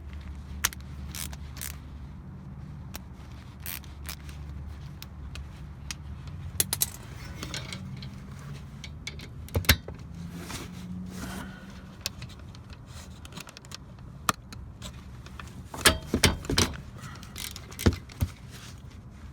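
Scattered metallic clinks and clanks of a wrench and socket on a brake caliper's bolts as they are loosened, with a louder cluster near the end, over a steady low hum.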